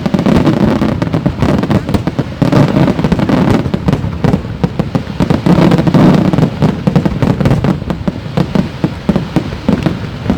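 Fireworks display: a dense, continuous barrage of bangs and crackles, swelling into heavier rumbling booms a few times.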